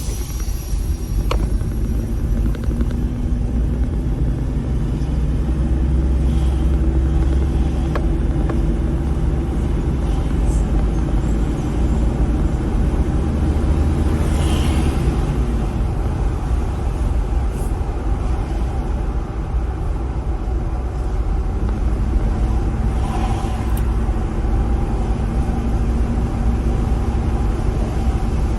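Car being driven: a steady low engine and road rumble, the engine note shifting slightly in pitch a few times.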